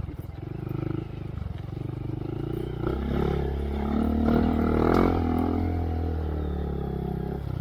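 2023 Honda Monkey's single-cylinder four-stroke engine through a Yoshimura RS3 exhaust, ridden slowly on a trail: the throttle eases off at first, then it revs up again about three seconds in and holds a steady low-rev run.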